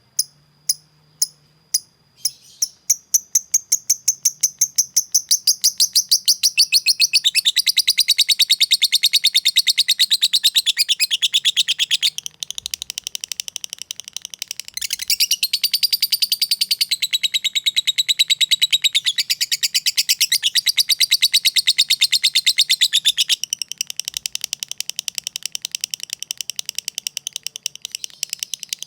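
Lovebird song: a few separate high ticks that quickly speed up into a long, very fast, high-pitched chattering trill (the 'ngekek' cackle), running on with only brief dips.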